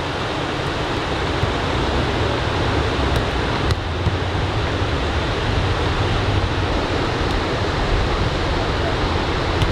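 Ocean surf from typhoon swell breaking and washing on a sand beach, a steady noise with no let-up.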